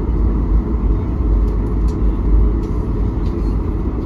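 Steady low rumble of a jet airliner heard from inside the cabin: engine and airflow noise.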